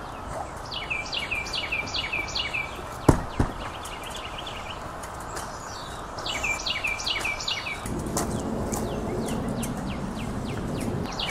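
Outdoor garden ambience: a small songbird sings two runs of quick repeated chirps over a steady hiss. Two sharp clicks come about three seconds in, and a louder rustling noise starts near the end.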